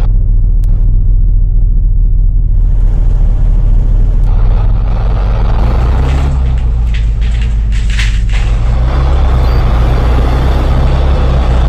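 Bus engine running under way, a loud steady low drone whose pitch shifts about six seconds in as the revs change. There are short hissing bursts about seven to eight seconds in and again near the end.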